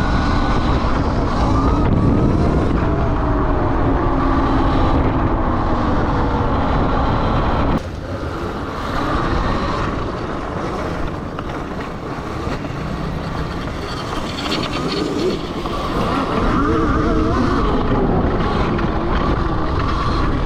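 Electric dirt bike being ridden, its motor whine rising and falling with speed under heavy rumbling noise. The sound drops abruptly about eight seconds in, then builds again.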